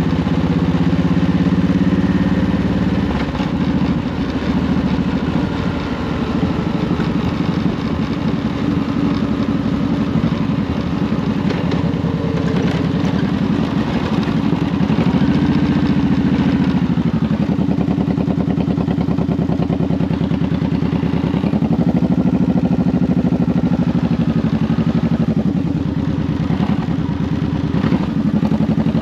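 Honda VTX 1800's V-twin engine running under way at low speed, its pitch rising and falling a few times as the throttle opens and closes.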